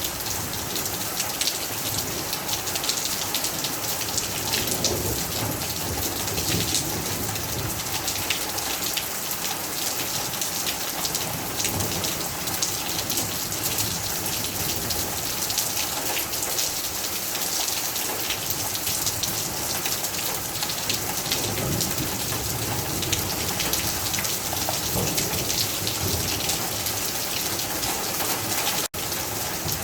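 Steady rain falling on a hard surface, thick with the ticks of individual drops, with low rumbles coming and going underneath. The sound drops out for a moment near the end.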